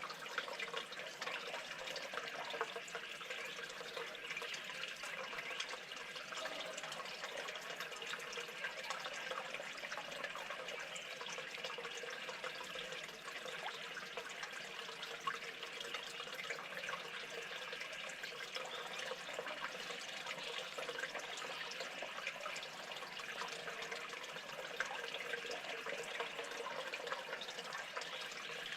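Steady running or trickling water, a constant splashing hiss with many small drips and ticks.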